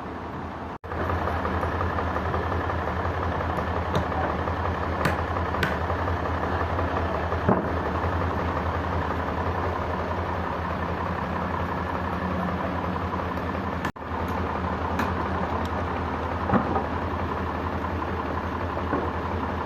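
Sawmill machinery engine running steadily, with scattered light knocks and clicks. The sound cuts out abruptly for an instant twice: just under a second in and about 14 seconds in.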